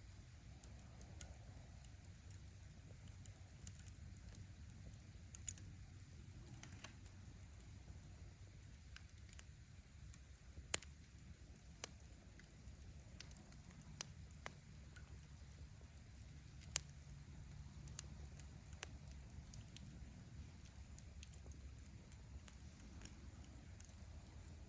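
Wood fire crackling: sparse, sharp pops of burning firewood over a low, steady rumble, with two louder pops about eleven and seventeen seconds in.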